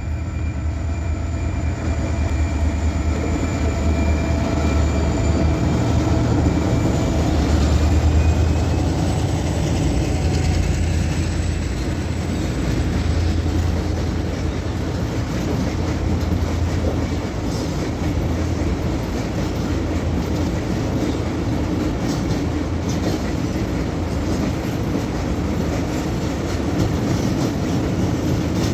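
Freight train hauled by two EMD diesel-electric locomotives, a GT22 and a GR12W, rolling past. The diesels rumble steadily, with a whine that rises slightly and fades after about eight seconds. Then the tank wagons roll by with scattered wheel clicks over the rail joints.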